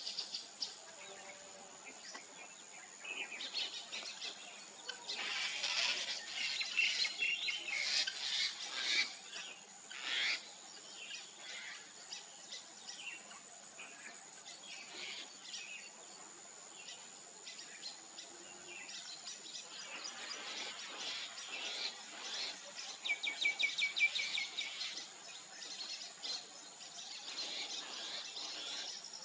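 Weaver birds chattering and calling, busiest in two loud bouts, one early and one about two-thirds through. A steady high whine runs underneath throughout.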